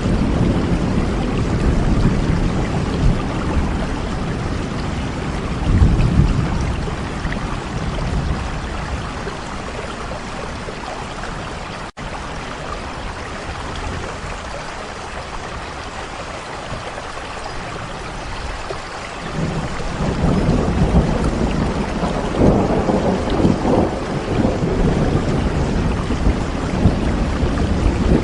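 Steady rain with rolling thunder: deep rumbles for the first several seconds, a quieter stretch of rain alone in the middle, then thunder rumbling again through the last third. The sound cuts out for a split second about twelve seconds in.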